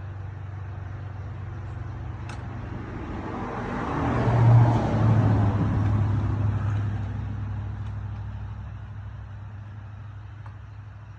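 A road vehicle passing by, swelling to a peak about four to five seconds in and slowly fading away, over a steady low hum. A faint click about two seconds in.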